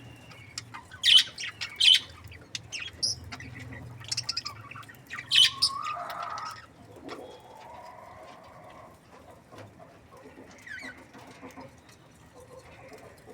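Budgerigars chirping and squawking: a few sharp, loud calls at about one, two and five seconds in, over softer chattering, clicks and warbling.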